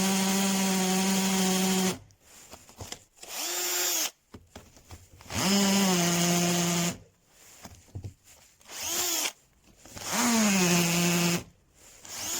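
Cordless drill motor running in several separate bursts, some short and some up to a couple of seconds long. At the start of each longer run the pitch dips, then the motor holds a steady whine.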